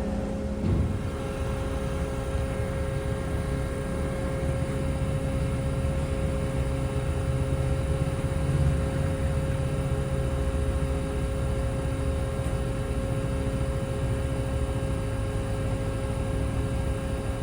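Steady low hum of a large ferry's engines and machinery, with a constant mid-pitched tone over a rumble. There is one short thump about a second in.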